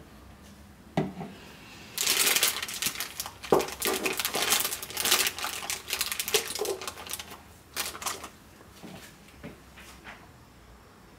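Plastic piping bag crinkling and rustling as soap batter is poured and scraped into it: a dense run of crackles and small clicks for about six seconds, with a few light knocks before and after.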